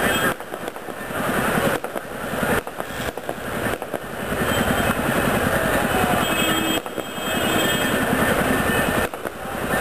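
A fireworks barrage: a rapid, continuous run of crackling bangs.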